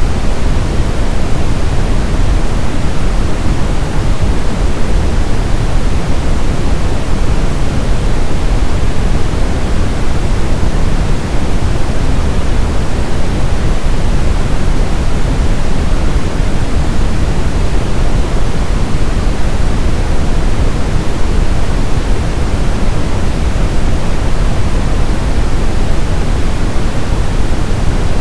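Steady synthetic brown noise: an even, constant hiss-like rumble weighted to the low end, with no changes or events.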